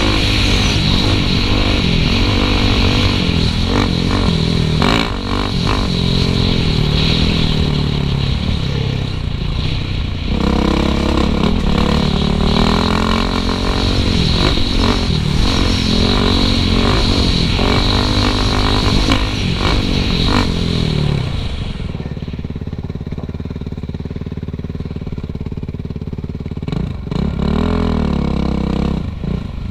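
Suzuki RM-Z450 four-stroke single-cylinder dirt bike engine revving up and down through the gears, with chassis clatter and wind hiss. About 22 seconds in it drops to a low, steady idle for several seconds, then revs up again near the end.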